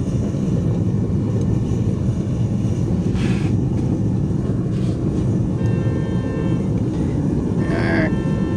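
Forge running with a steady, loud low rushing noise; a faint higher hum with several pitches joins it for the last few seconds.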